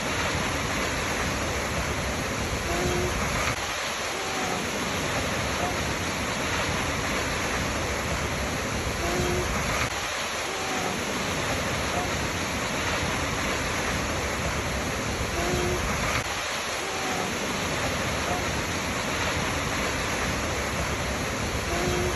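Waterfall rushing in a steady, unbroken roar of falling water. A short faint tone comes back about every six and a half seconds, as if the track is looped.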